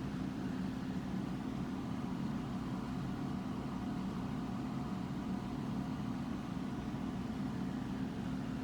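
Steady low machine hum with a faint higher whine, a running motor in a machine shop.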